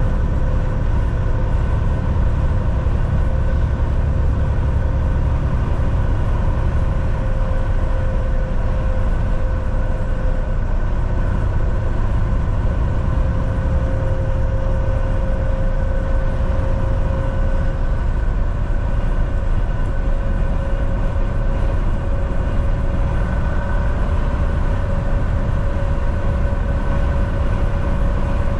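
Volvo VNL 760 semi truck cruising on the highway: a steady engine drone with a low road rumble and a constant whine.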